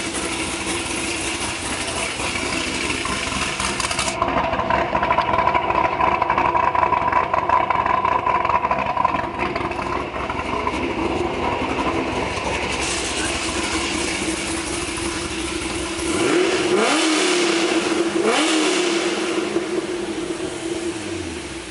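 2008 Corvette Z06's 427 ci LS7 V8 running through Kooks headers, an X-pipe and a Corsa exhaust, heard from the back of the car: a steady idle, then revved twice near the end.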